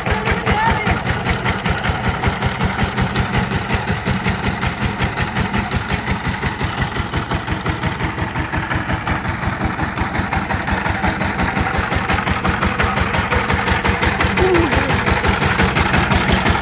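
Diesel engine running steadily at idle with a fast, even beat.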